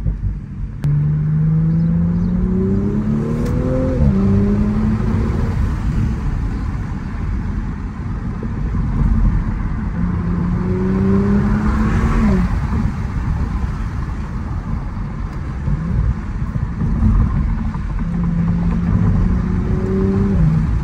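Audi S5's 3.0-litre turbocharged V6 accelerating, heard from inside the cabin. The engine note climbs in pitch and drops back sharply at each gear change, about four, twelve and twenty seconds in, over steady road rumble.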